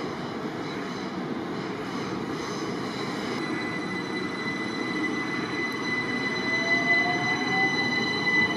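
Electric multiple unit train running through the station, with a steady rumble and a steady high wheel squeal. From about six seconds in, a motor whine rises in pitch as the train picks up speed.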